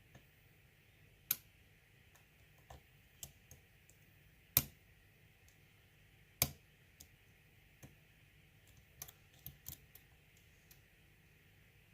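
Lock pick working the pin stack of an ASSA six-pin euro cylinder with security pins: scattered small metallic clicks at an uneven pace, three of them louder, and a quick run of clicks late on.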